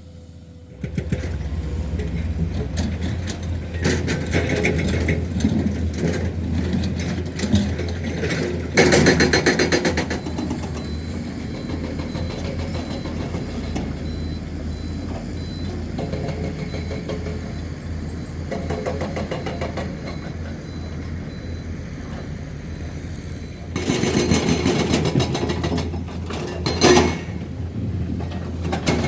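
Heavy diesel engine of a dump truck or loading machine running, coming in about a second in, with louder surges around nine and twenty-four seconds in.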